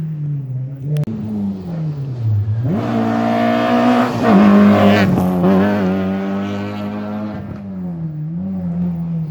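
Rally car engine on a special stage: it comes off the throttle with the pitch dropping, then accelerates hard and passes close, loudest about halfway through, before fading away.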